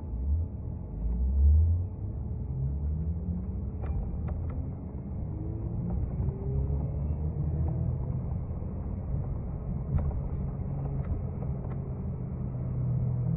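Inside a moving TTC city bus: steady low drivetrain rumble with a whine that rises in pitch over several seconds as the bus accelerates. A heavy low bump comes about a second and a half in, and a few short rattles sound during the ride.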